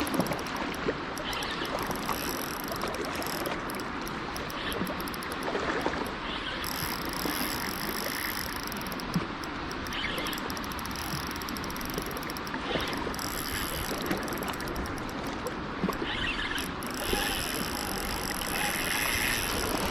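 Steady rushing of flowing river water, with a few faint knocks.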